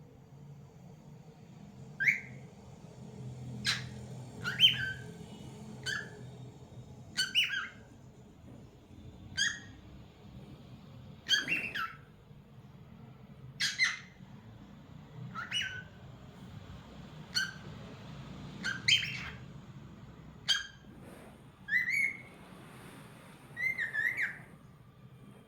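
Lutino cockatiel calling in short chirps and whistled notes, about one every second or two, with a run of wavering whistles near the end.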